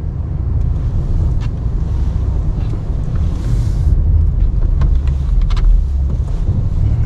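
Ram 1500 pickup's engine running with a steady low rumble as the truck pushes snow with its plow. A brief hiss comes about three and a half seconds in, with a few light clicks.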